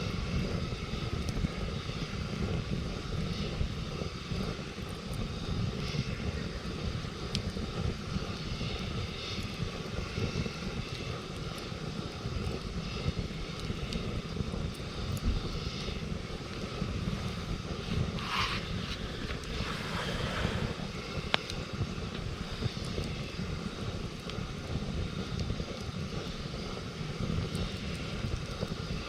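Campfire burning with scattered small crackles over a steady low rumble.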